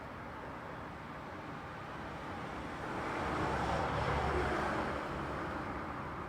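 Road traffic noise, with one vehicle passing by: its sound swells to a peak about four seconds in and then fades away.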